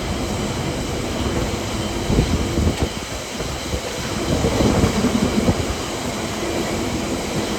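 A train running along the track, a steady rumble with the wheels knocking over rail joints now and then.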